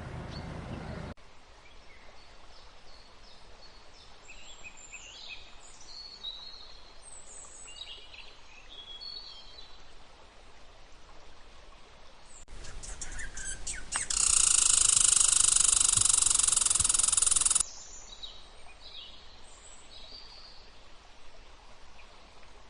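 Songbirds chirping and calling in short, quick notes and pitch glides, interrupted past the middle by a loud, steady sound of several held pitches lasting about three and a half seconds.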